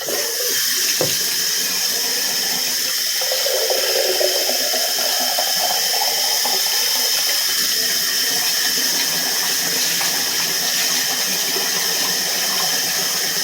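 Water running hard from a bathtub tap, a steady hiss that comes on suddenly, with the splash of water on the dog's wet coat.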